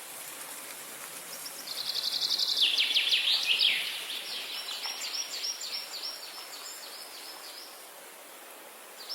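A songbird singing a fast run of high, rapidly repeated chirps, loudest about two to four seconds in and trailing off before the end, over a steady background hiss. A new burst of song starts right at the end.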